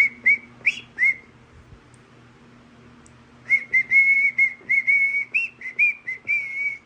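Whistling: a few short whistled notes at the start, then after a pause of about two seconds a longer run of warbling whistled notes, some of them bending up or down.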